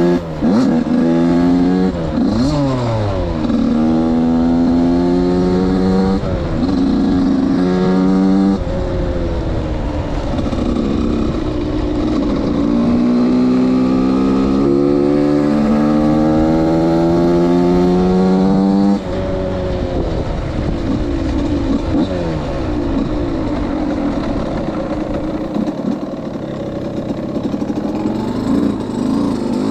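Suzuki RM 85's 85 cc single-cylinder two-stroke engine accelerating up through the gears, its pitch climbing and dropping back at each shift over the first several seconds. Then it makes one long, slow climb of about ten seconds. After that it runs lower and unevenly, with the throttle opened and closed.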